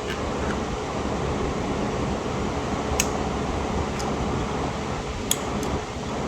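Steady fan-like whooshing noise, with a few short sharp clicks of tools about three, four and five seconds in.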